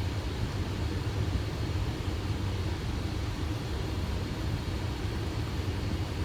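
Boeing 737 flight deck on final approach with gear down and flaps 30: a steady rush of airflow with a low rumble underneath.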